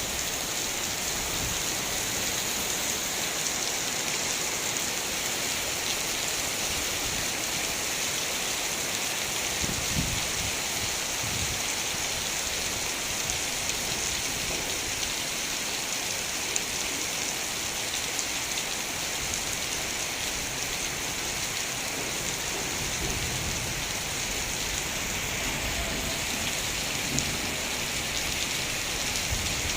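Heavy rain falling steadily, a constant hiss of rain on surfaces with a few scattered low thuds.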